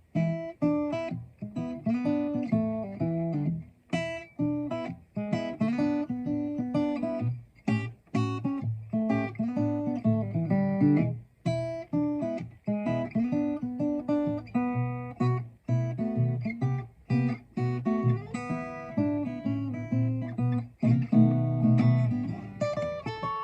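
Guitar strumming chords in a steady rhythm, starting abruptly: the instrumental opening of a song, with no singing.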